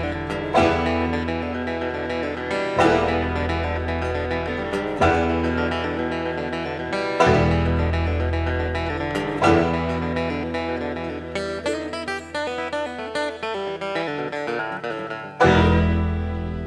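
Bluegrass band playing an instrumental passage on acoustic string instruments. Strong accented chords with deep held bass notes land about every two seconds, then a fast run of picked notes leads into a loud accented chord near the end.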